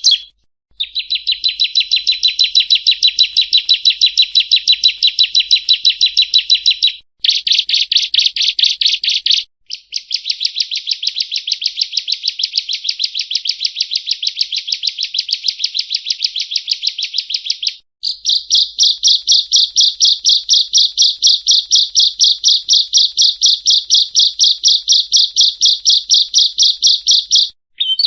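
Yellow-bellied prinia (prenjak rawa) singing: long trains of rapid, evenly repeated high chirping notes, in bouts of a few seconds broken by brief pauses.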